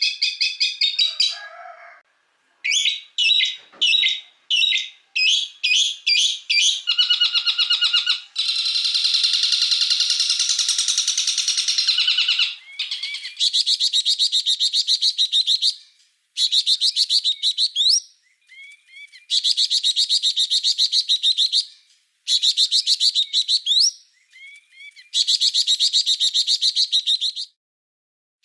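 Songbird song: a run of short separate phrases, then long, fast, high-pitched trills lasting a few seconds each, repeated with brief pauses between them.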